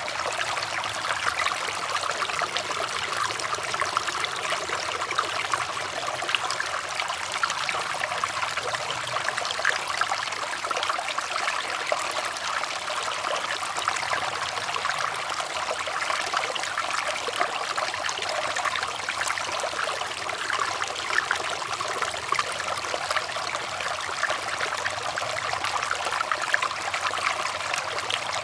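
Running water trickling and splashing steadily, a continuous stream with many small splashes.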